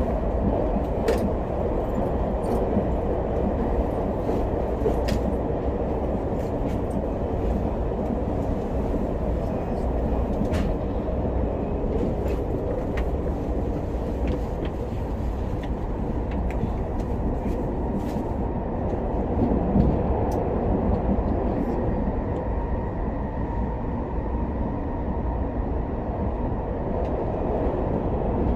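Cabin noise of an SRT high-speed train (SR Class 120000 EMU) running at speed: a steady low rumble and hiss, with scattered faint clicks.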